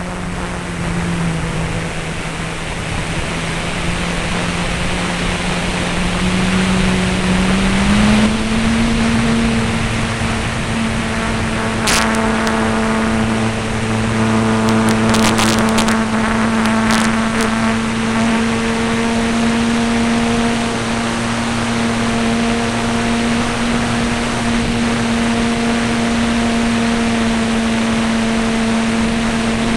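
F3A aerobatic RC model airplane's motor and propeller running steadily, its pitch rising about eight seconds in and then holding, easing down at the very end. A few brief crackles come in the middle.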